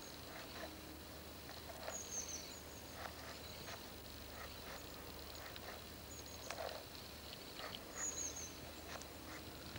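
A small bird twitters faintly in two quick bursts of high chirps, about two seconds in and again near the end, with a few single chirps between, over outdoor background with a steady thin high tone and scattered faint clicks.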